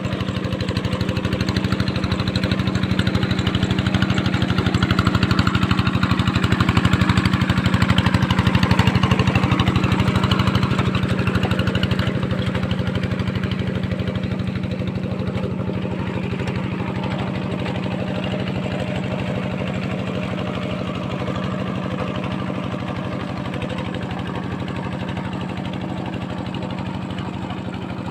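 A tractor's diesel engine running steadily, slightly louder about eight seconds in and then easing a little.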